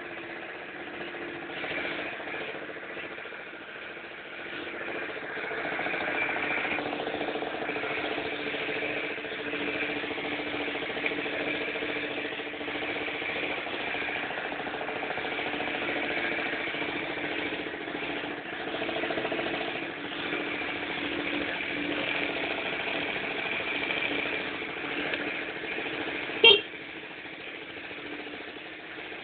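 Keeway Hurricane scooter's small engine running steadily, with a single sharp click about three seconds before the end.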